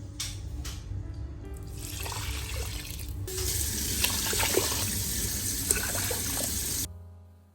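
Water running from a tap into a sink. The flow gets stronger about three seconds in and cuts off abruptly near the end.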